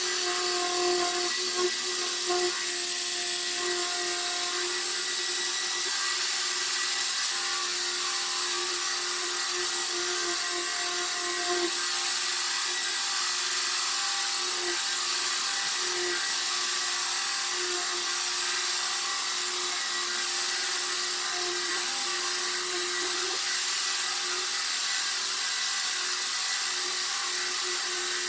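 Power sander running steadily on a car's body panel, a constant motor whine over the hiss of abrasive on the surface, sanding the body down before paint.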